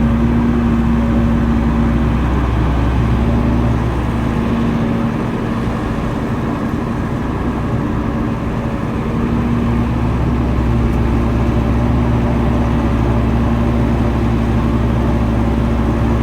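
Heavy diesel engine of earthmoving machinery running steadily under work, easing off for a few seconds in the middle and then coming back up.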